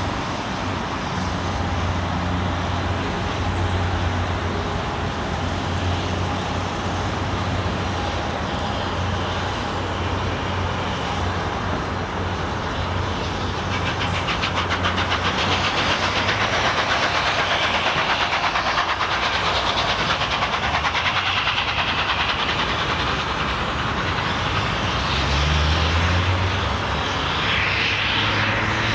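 A train passing on the line. A steady low hum comes first, then from about halfway a louder, fast, even clatter of wheels over the rail joints that eases off near the end.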